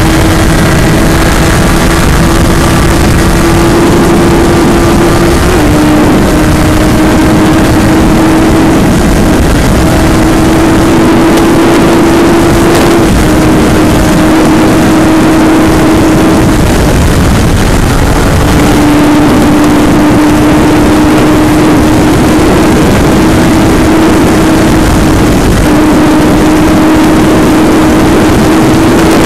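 2009 Suzuki Hayabusa's 1340 cc inline-four with a Yoshimura TRC exhaust running hard at high revs and high speed. The engine note holds steady with small rises and dips, briefly falls away a little past halfway, then picks up again. Heavy wind rush on the microphone runs under it.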